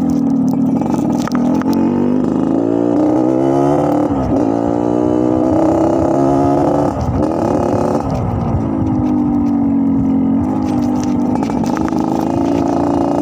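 Yamaha RX-King two-stroke single-cylinder motorcycle engine being revved in a sound check, its note rising and falling several times with a rasping 'ngorok' (snoring) growl from the exhaust.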